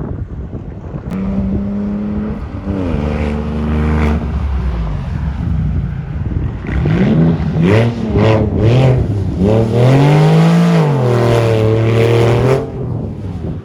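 A car engine revving hard. A steady note from about a second in gives way to several quick rising and falling pitch swings, then a longer climb and fall that settles into a steady note near the end.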